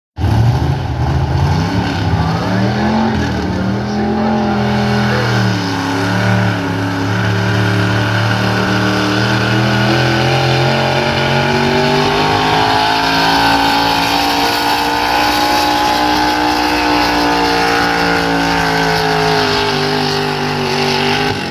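Gasoline street pickup truck engine at a truck pull. It revs up and down a few times, then is held at high revs while pulling the sled, its pitch slowly rising and then sagging toward the end.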